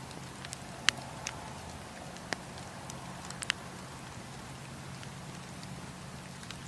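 Wood campfire crackling: several sharp pops and snaps of burning wood, mostly in the first half, over a steady low rumble of the flames.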